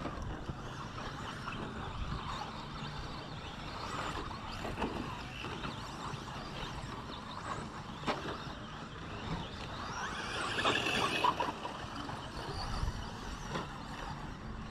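Radio-controlled 2WD short course trucks running in a race, their motors whining. A louder stretch of rising whine comes about ten seconds in.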